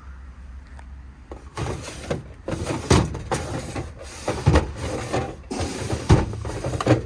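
Metal bolt drawers in a truck service-body compartment being pulled out and pushed back in, a run of sliding clatter and sharp knocks starting about a second and a half in.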